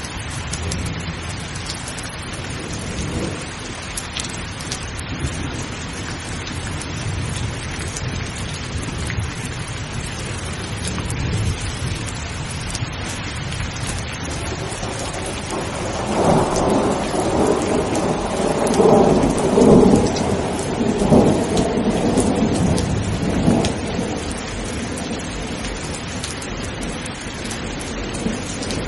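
Rainstorm: steady rain with a low rumble of thunder underneath. About halfway through, a louder roll of thunder swells in several pulses, loudest around two-thirds of the way in, then dies back into the rain.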